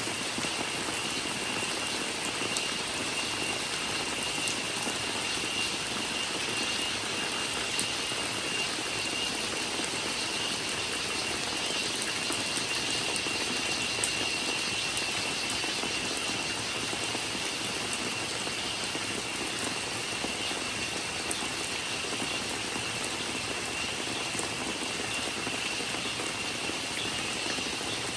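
Steady rain falling, with scattered sharp drip ticks, under a continuous high cicada drone held at one pitch.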